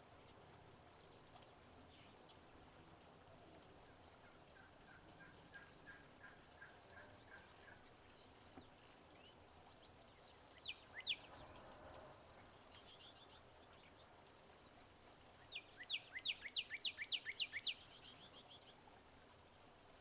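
Wilson's warbler singing: a rapid chattering series of about ten sharp, downslurred chips near the end, with two similar loud notes earlier. A softer run of lower, evenly spaced notes comes in the first half.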